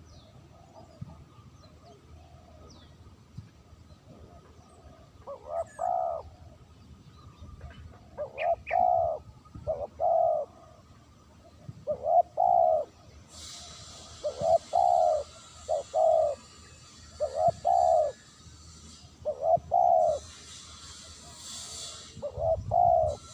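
Spotted dove (terkukur) cooing, a clean call of the kind used as a lure for wild doves. It gives a repeated phrase of two or three low coos about every two seconds, starting about five seconds in. A high hiss runs under the calls through the middle stretch.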